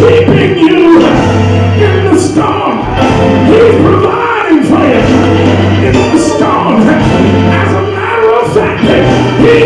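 Live gospel music: a church band with bass and drums playing loudly under singing voices, the bass holding long notes that change about every second.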